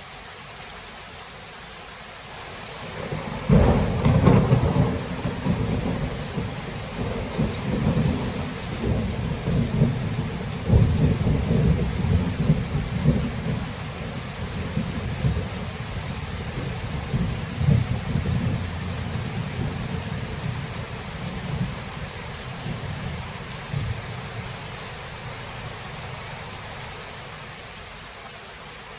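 Steady rain with thunder that breaks suddenly about three seconds in, then rumbles on in several rolling waves and dies away over about twenty seconds.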